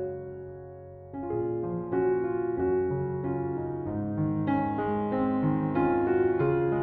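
Slow, gentle piano music: sustained chords and single notes, growing a little fuller about a second in.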